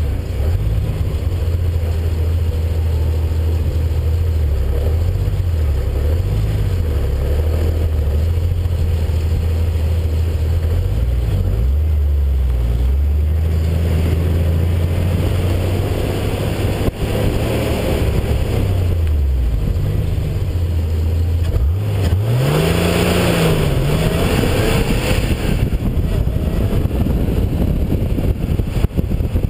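Porsche sports car engine running under varying throttle as the car pulls away and is driven through a cone course, its pitch rising and falling with each burst of acceleration and lift, with one sharp rev about three-quarters of the way through.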